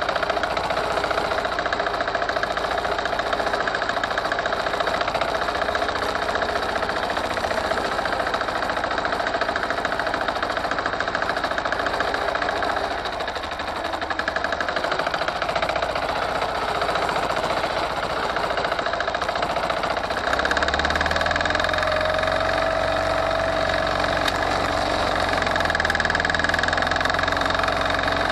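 Forte 135E walk-behind tractor's single-cylinder diesel engine running steadily with a knocking clatter; about three quarters of the way in it gets louder and heavier.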